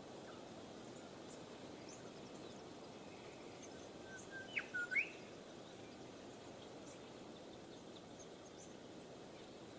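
Quiet outdoor background hiss with one short bird call about four to five seconds in: a few brief notes followed by two quick, sharp whistled sweeps. Faint high chirps are scattered throughout.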